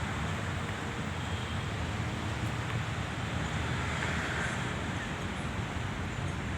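Steady outdoor background noise with a low rumble, without distinct events.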